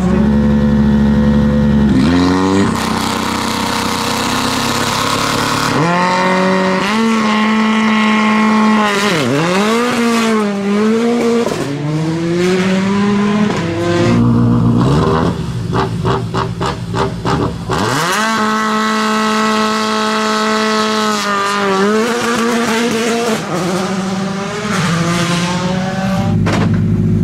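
Turbocharged rally car engine at a stage start: it revs up and down and pulls away, the note climbing and dropping back at each gear change. Near the middle comes a rapid, regular stutter of about four pops a second, before the engine rises steadily through the gears again.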